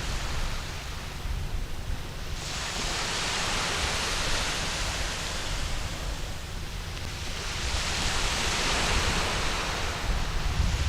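Waves washing onto a sandy beach, with two surges of surf, one about two seconds in and a stronger one around eight seconds, over a steady low rumble.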